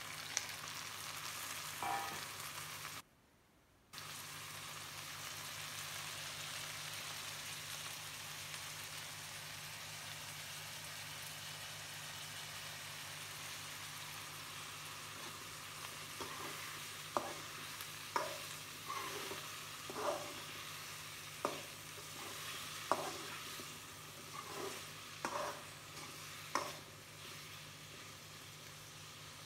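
Chopped tomatoes and onions sizzling steadily in hot oil in a pan, cutting out for about a second near the start. About halfway through, a spatula starts stirring, knocking and scraping against the pan roughly once a second.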